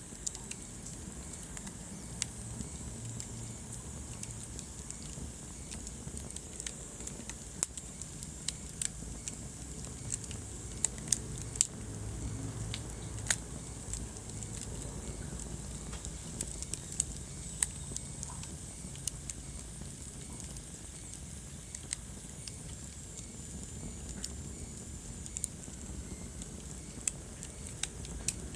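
Wood fire burning in a fireplace: irregular sharp crackles and pops over a low, steady rumble of the flames, with a cluster of louder pops about halfway through.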